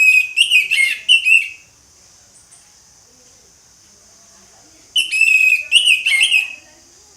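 Orange-headed thrush singing: two short, loud phrases of rapid whistled notes, one at the start and one about five seconds in, over a steady high hiss.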